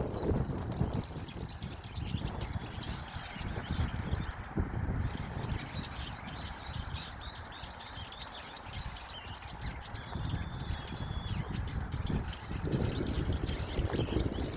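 Small songbirds chirping busily in rapid strings of short high notes, over a steady low rumble.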